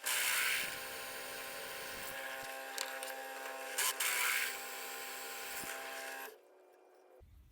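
Small electric power tool motor running steadily while working steel angle, louder at the start and again about four seconds in, then stopping after about six seconds.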